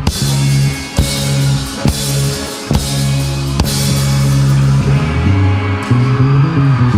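Live rock band playing without vocals: drum kit hits and cymbal wash over held bass and guitar notes, with the bass line moving about two thirds of the way through.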